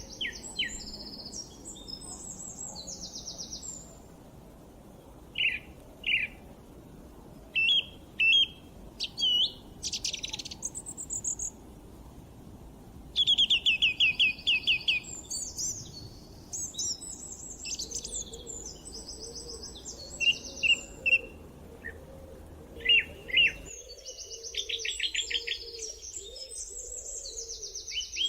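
Several songbirds singing and chirping at once, with high trills and fast rattling series of notes overlapping. Beneath them is a soft, low, steady background noise that cuts out abruptly about 24 seconds in.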